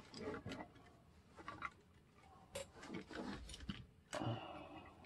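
Small plastic parts of a 1:32-scale RC toy truck being handled during disassembly: scattered light clicks and brief rattles, with a few louder handling noises in the second half.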